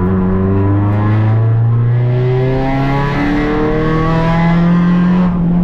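Rally car engine pulling hard under acceleration, heard from inside the cockpit, its pitch climbing with a gear change about three seconds in.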